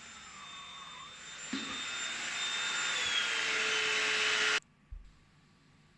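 Black + Decker Powerseries Pro 2-in-1 cordless stick vacuum (CUA525BH-GB) running on a rug, its motor stepping up from the lower hard-floor power, so the whine and rush grow steadily louder. It cuts off suddenly about four and a half seconds in.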